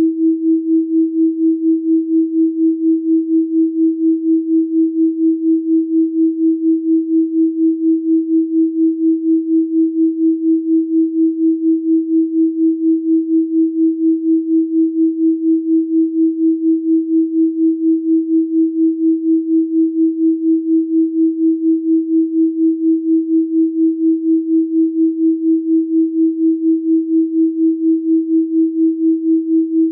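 Electronically generated 324 Hz pure sine tone, held steady at one pitch, with a quick regular pulse in its loudness.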